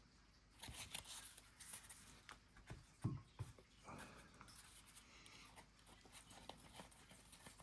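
Faint rustling and light clicks of trading cards being handled and flipped through, with a soft thump about three seconds in.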